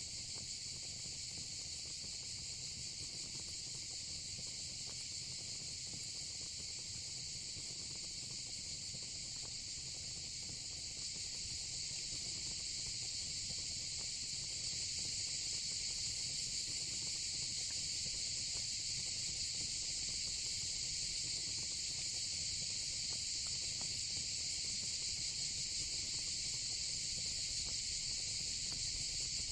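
Steady, dense chorus of night insects, crickets and cicadas, over a faint low rumble and light scattered crackling of a fire pit.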